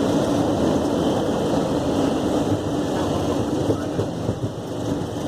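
Boeing 737-700 on its landing rollout, heard from inside the cockpit: a steady rumble of engines and wheels on the runway, with a steady hum running through it.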